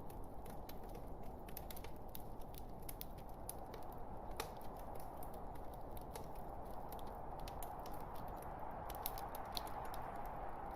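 Log fire crackling: irregular sharp pops and snaps over a steady hiss, the loudest snap about four seconds in.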